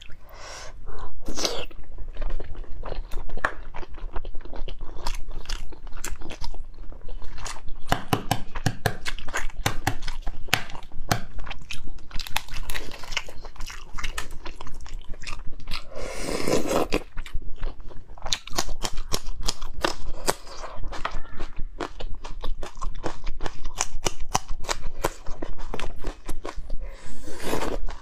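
Close-miked eating of spicy braised eggs: chewing and biting, heard as a dense run of short wet clicks and crunches, with a louder, longer noise about halfway through.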